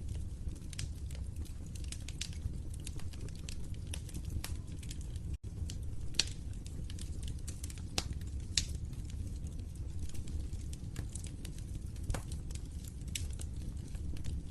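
Wood fire in a fireplace crackling, with irregular small snaps and a few louder pops over a low, steady rumble of burning.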